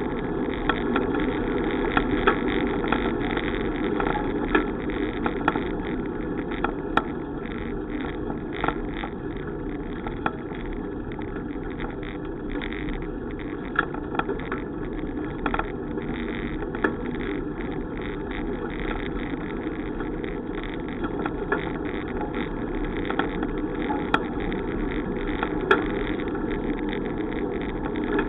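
Steady rushing noise of riding a bicycle, from wind and rolling tyres, with scattered irregular clicks and rattles.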